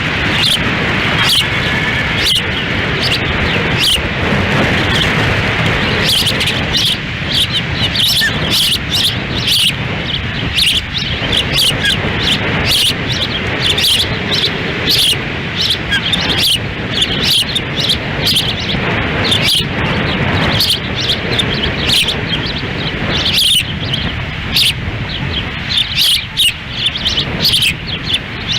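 Ospreys giving many short, high, whistled chirps in quick series, over strong wind buffeting the nest microphone.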